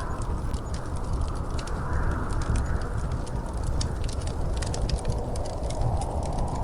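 Wood fire crackling in a fireplace: a steady low rush of flames with many short, sharp pops and snaps scattered throughout.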